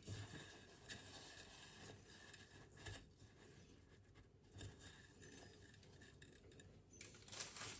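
Faint household handling sounds: scattered light taps and clicks over a soft background hiss, with a busier cluster of handling noise near the end.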